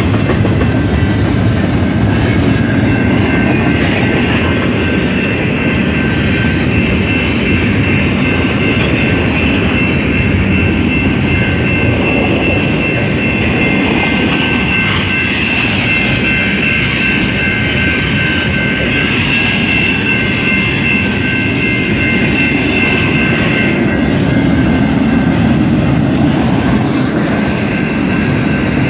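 Freight cars of a loaded intermodal train rolling past at a grade crossing: a steady rumble and clatter of the wheels on the rails. A high, steady squeal sits over it and stops about four seconds before the end.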